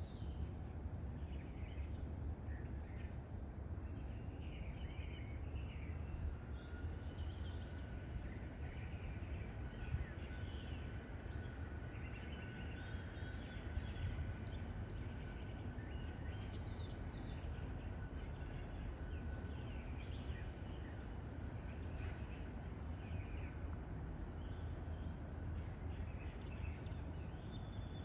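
Several birds chirping and singing in short, overlapping calls, over a steady low rumble. A faint steady high tone joins about six seconds in.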